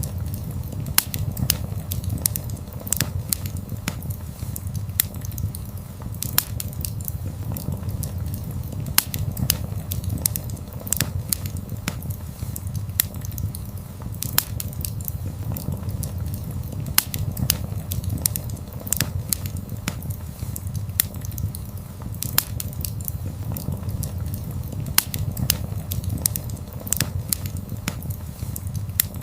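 Wood fire burning: a steady low rumble under irregular sharp crackles and pops.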